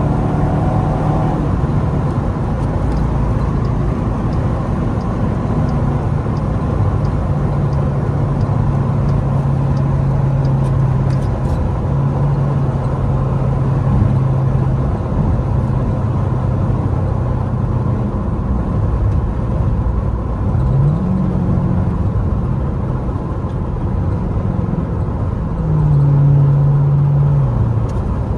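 Straight-piped Dodge Durango's exhaust droning at a steady cruise over road noise, the pitch rising briefly a little past the two-thirds mark and stepping up louder near the end as it accelerates.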